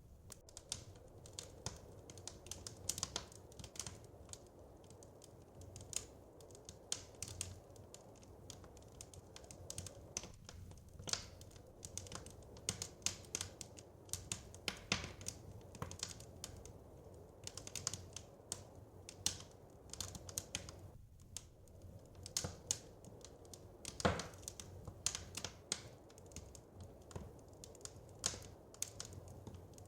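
Wood fire crackling: irregular sharp pops and snaps, several a second, over a low steady rush, with one louder pop about 24 seconds in.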